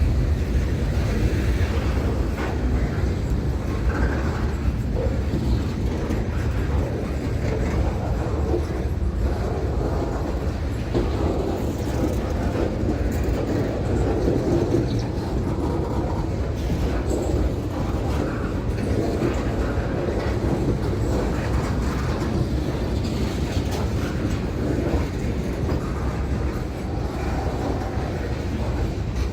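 A train rolling past on the rails: steady wheel and car noise with a clickety-clack from the rail joints.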